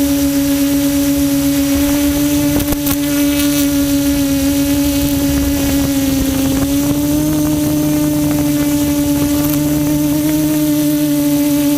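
Quadcopter's electric motors and propellers giving a steady, loud hum, its pitch rising slightly about seven seconds in, with a few brief clicks around three seconds in.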